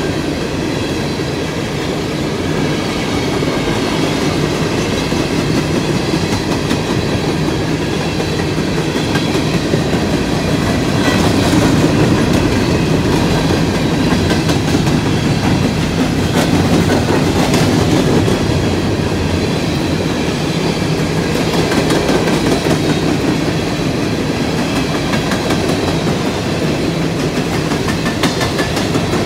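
Freight cars of a CSX coal train rolling past. The wheels make a steady rumble on the rails, with scattered sharp clicks and a faint high ringing from the wheels. The clicks are loudest a little before the middle and again just past it.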